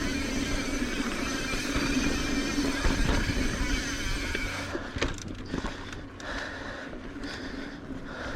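Mountain bike ridden along a dirt singletrack: a steady rush of tyre and wind noise that drops about five seconds in, leaving scattered clicks and rattles of the bike over rough ground.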